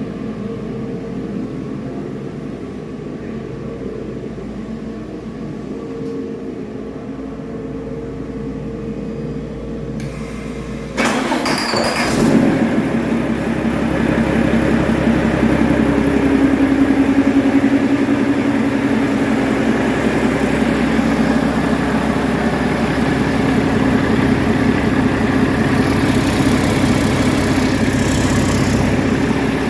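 Mack MP7 inline-six diesel engine starting on a test run. A steady hum is heard for about the first ten seconds. About eleven seconds in the level jumps sharply as the engine fires, then it settles into steady running at idle.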